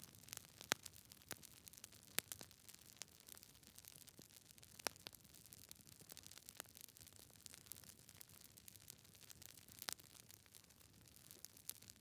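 Wood fire in a fireplace crackling: irregular sharp snaps and pops from the burning logs over a faint hiss, with a few louder pops scattered through.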